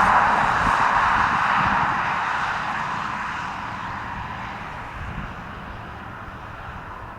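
Airliner flying past, its engine noise loud at first and fading steadily as it moves away.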